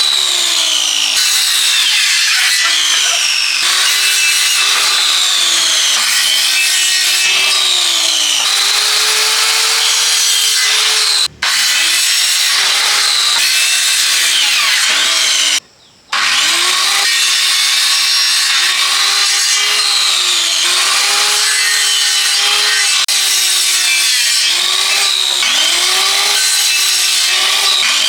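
Hand saw cutting through wood in steady back-and-forth strokes, roughly one a second, each stroke rising and falling in pitch. The sawing cuts out briefly twice.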